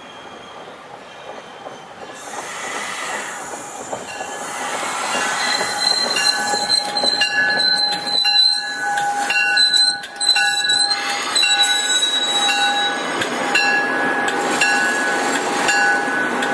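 MBTA commuter rail train pulling in and rolling past close by, its sound growing louder over the first few seconds. From about five seconds in there is high, steady squealing from the wheels and brakes, with sharp clicks as the cars pass over the rail.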